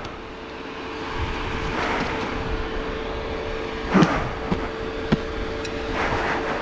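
A vehicle running steadily over a dusty dirt road, its engine hum and road noise continuous, with a few short knocks along the way.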